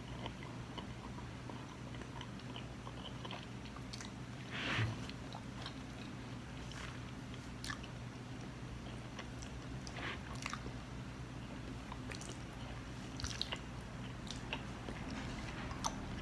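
Close-miked chewing of saucy pork and vegetables: scattered wet mouth clicks and smacks, with one louder burst about five seconds in, over a steady low hum.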